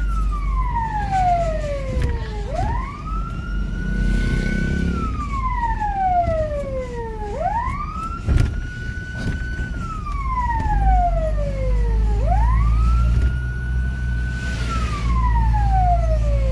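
Fire engine siren wailing in a slow repeating cycle: each cycle rises quickly to a held high note, then slides slowly down, about every five seconds, over a steady low rumble. A sharp knock comes about eight seconds in.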